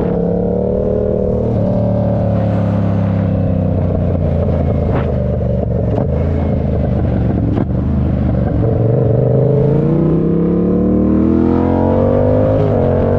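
Engine of a 2013 R7 running under way. Its pitch eases down through the middle, then rises steadily from about nine seconds in as it accelerates, with a brief dip near the end like a gear change.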